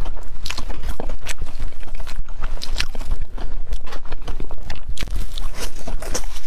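Close-miked chewing of a deep-fried red bean pastry: a quick, continuous run of wet crunches and crisp clicks from the fried crust, with a fresh bite taken near the end.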